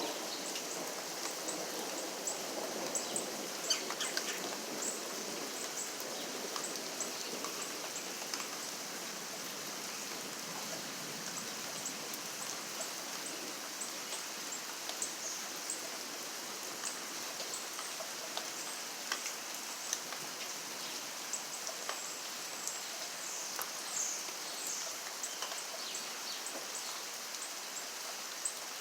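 Steady rain falling, a continuous hiss with many individual drops ticking sharply.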